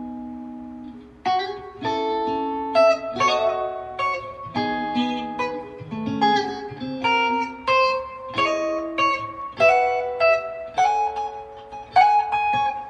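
Guitar music: a chord rings out and fades over the first second, then plucked notes follow one another at about two a second.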